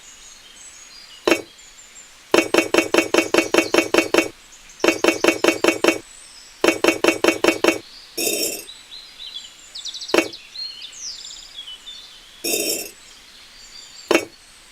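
Light, sharp clinking taps of a hard tool on hard material: three quick runs of about six taps a second, with single taps and short ringing clinks in between. Faint bird chirps can be heard in the background.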